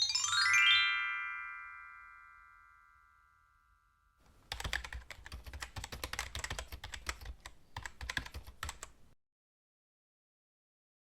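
A quick rising arpeggio of bell-like chime tones rings out and fades over about four seconds. Then comes a rapid run of computer-keyboard typing clicks lasting about four and a half seconds, which stops suddenly.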